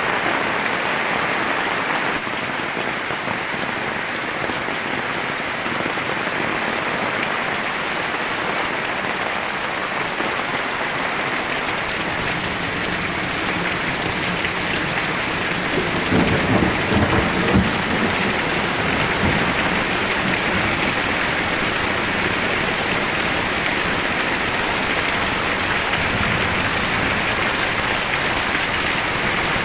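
Very heavy rain pouring down steadily. A louder low rumble swells for a couple of seconds just past the middle.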